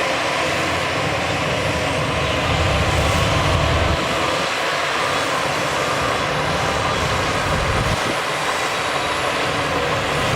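Heavy diesel earthmoving machinery running under load, the low engine sound easing off twice, about four and eight seconds in.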